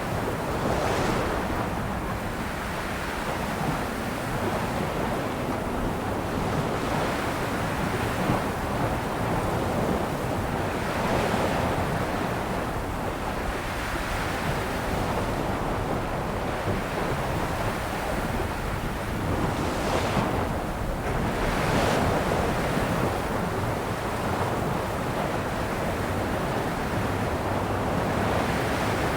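Ocean waves breaking and washing on a shore, a continuous surf roar that swells with each breaker every few seconds, with some wind noise on the microphone.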